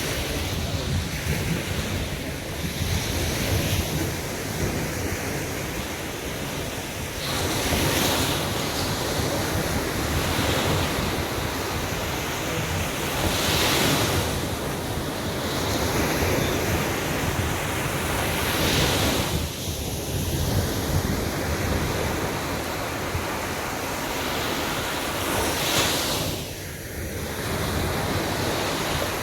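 Sea waves breaking on a beach: continuous surf with several larger breakers washing in, about every five to six seconds, over wind buffeting the microphone.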